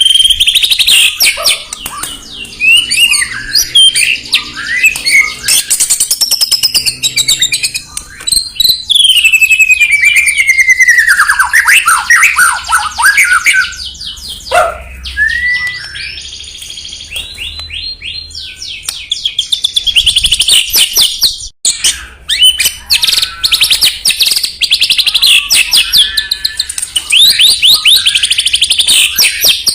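White-rumped shama (murai batu) in full song: a long, varied run of loud whistles, rapid trills and sliding notes, with a brief break about 21 seconds in.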